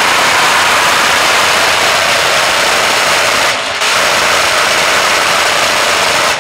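Supercharged, fuel-injected LS V8 in a Holden Commodore ute held at high revs in a burnout, with the rear tyre burnt away and the bare rim grinding on the track. The sound is loud and steady, with a brief drop just past halfway.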